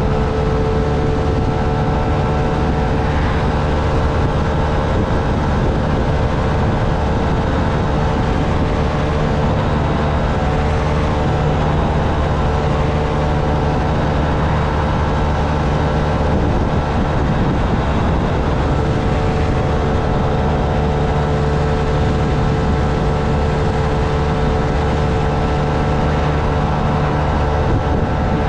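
Honda Navi's small single-cylinder engine running at a steady, unchanging speed while the bike is ridden, over an even rushing noise.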